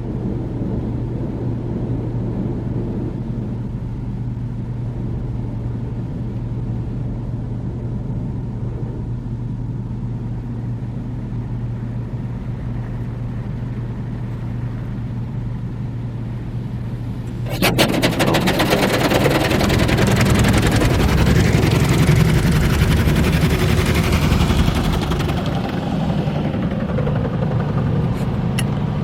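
D&S IQ soft-touch car wash: a steady low hum, then about 17 seconds in, a sudden loud rush of spray and cloth brushes striking the car, with rapid slapping as it begins, easing off near the end.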